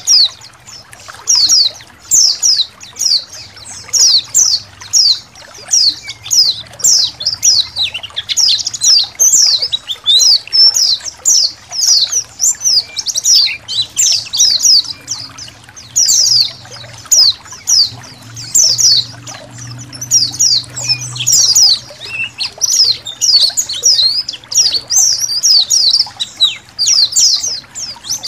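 A flock of white-eyes chirping together, a dense run of quick, high downward-slurred notes overlapping one another without a break, over trickling water.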